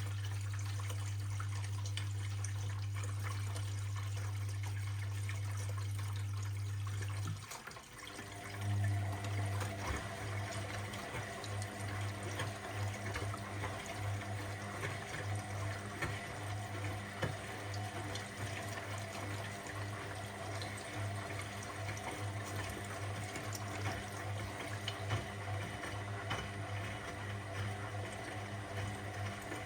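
Washing machine starting its cycle with water running in: a steady low hum for about seven seconds that cuts off, then about a second later a wavering hum starts again over the water noise.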